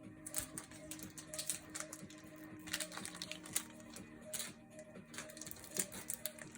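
Trading cards and packs being handled on a table: irregular light clicks, taps and rustles, over a faint steady background tone.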